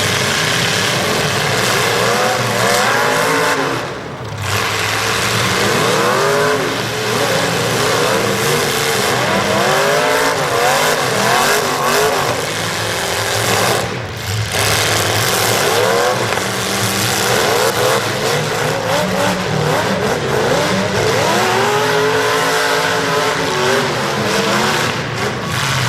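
Demolition derby cars' engines revving hard, their pitch repeatedly rising and falling, over a loud, dense mix of engine and arena noise, with two brief lulls.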